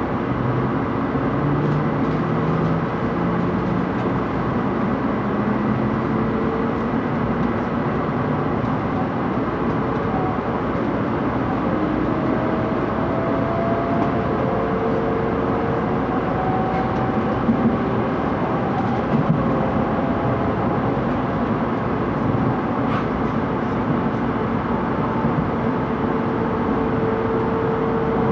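Cabin noise inside a Tokaido Shinkansen 700 series car under way: a steady rumble of running noise with faint motor whines gliding slowly upward in pitch, typical of the train picking up speed. A couple of brief knocks about two-thirds of the way through.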